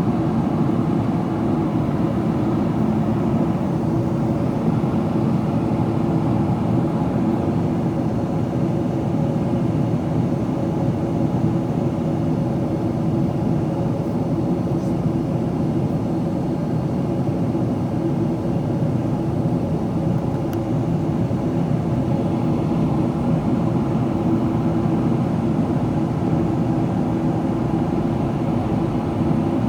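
Steady cabin noise of a Boeing 777-300ER in descent: the rush of airflow over the fuselage blended with the drone of its GE90 engines, with a few faint steady tones in it.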